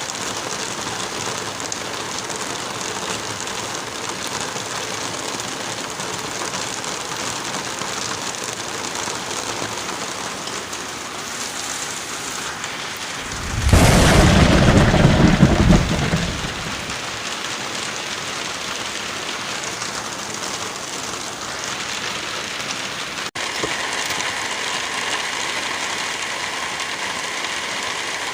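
Steady heavy rain with one loud clap of thunder about halfway through that rumbles away over a few seconds. A momentary dropout about two-thirds in leaves the rain sounding slightly different afterwards.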